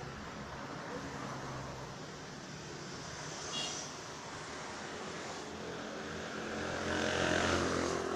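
Motor vehicle engine running with a steady low hum, while a vehicle passes and swells louder near the end. A brief high chirp about three and a half seconds in.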